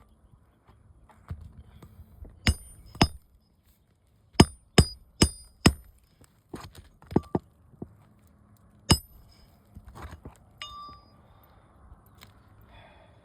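Hammer striking metal on a shingle roof: sharp blows that ring briefly, two, then a quick run of four, then one more, with fainter knocks between.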